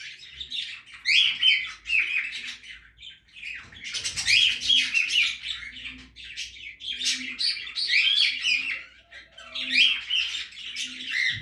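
A group of budgerigars chirping, rapid overlapping chirps in bursts with brief gaps. From about halfway in, a faint low note repeats underneath, under a second apart.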